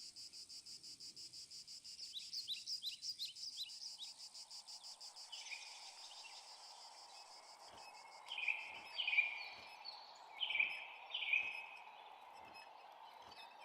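Cartoon outdoor ambience: steady rapid cricket chirping with a few quick bird chirps, giving way about five seconds in to a soft hiss with louder, repeated falling bird calls and faint regular ticks.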